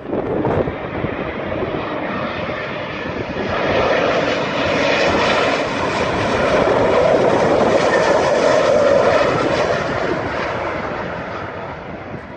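Airliner landing, passing low overhead: its engine noise swells over a few seconds, peaks about two-thirds of the way through and then fades. Wind gusts buffet the microphone at the start.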